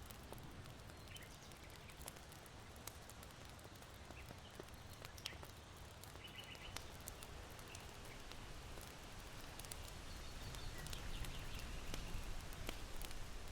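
Soft ambience of irori charcoal crackling in scattered small pops, with occasional short chirps of small birds and a low, steady wind through a bamboo grove that grows louder near the end.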